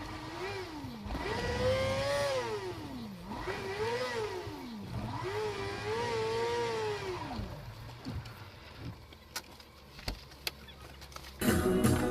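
Car engine revving up and down over and over, its pitch rising and falling about every one and a half to two seconds, then dying away, with a few clicks. Music starts near the end.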